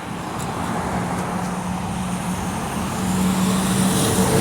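Road traffic: a motor vehicle approaching, its engine hum and road noise growing steadily louder toward the end.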